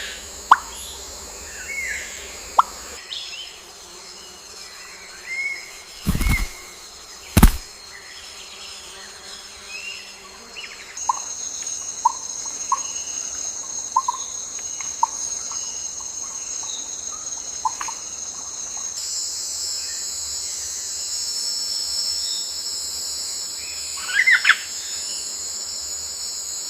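Insect and bird ambience: a steady high insect drone that shifts in pitch every several seconds, with scattered bird chirps and calls and, in the middle, a run of short, evenly spaced bird notes. Two sharp knocks stand out about six and seven seconds in.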